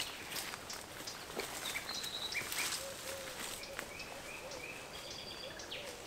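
Woodland birds calling: short high whistled notes and a lower wavering call, repeating. A few crunching steps on dry leaves and twigs come in the first second or two.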